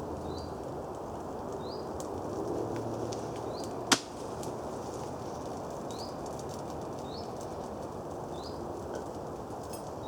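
Small kindling fire of twigs and wood shavings burning, a steady rush with scattered crackles and one sharp loud snap about four seconds in. A bird repeats a short high chirp about once a second.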